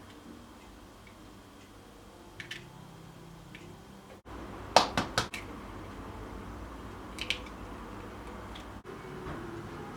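Sharp clicks and taps of kitchen items being handled: a single tap, then three quick loud clicks about five seconds in, and another tap later.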